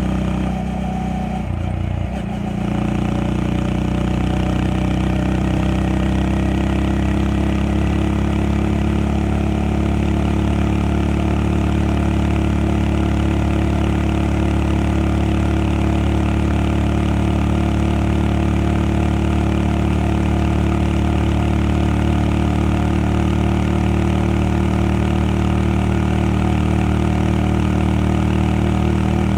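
Honda Monkey 125's single-cylinder four-stroke engine running steadily under way on a sidecar rig. About two seconds in the engine note briefly drops and changes, then settles into a steady cruise.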